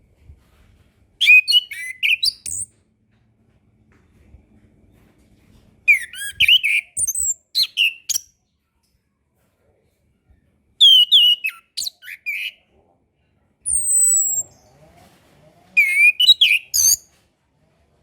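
Orange-headed thrush singing in short, rich phrases of varied whistled notes, five phrases separated by pauses of a few seconds. One phrase is a single high whistle that slides down in pitch.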